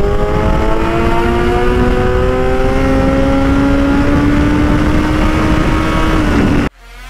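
Kawasaki inline-four motorcycle with a loud exhaust accelerating in one gear, its pitch rising steadily for over six seconds, then cut off suddenly near the end.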